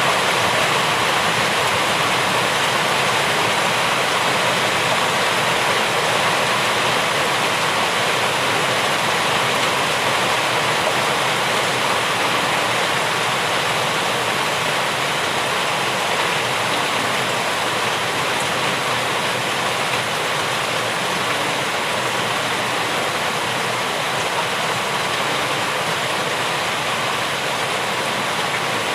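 Steady rainfall, an even hiss with no separate drops or thunder standing out.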